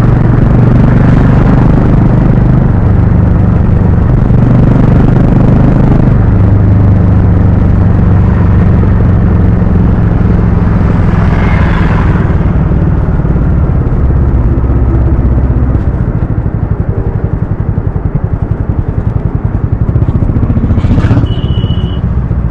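Harley-Davidson X440's single-cylinder engine and exhaust running under way, its note stepping in pitch a few times. About two-thirds of the way through it quietens into a slower, plainly pulsing beat, and a short high beep sounds near the end.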